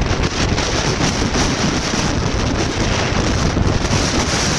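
Strong tropical-storm wind buffeting the microphone: a loud, steady rumble and hiss without a break.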